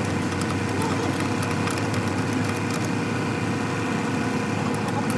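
An engine idling steadily, with an even low hum and rapid fine pulsing.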